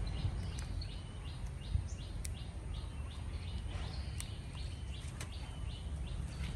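A small bird chirping in a rapid, even series of short high calls, about three or four a second, over a steady low rumble, with a few sharp clicks.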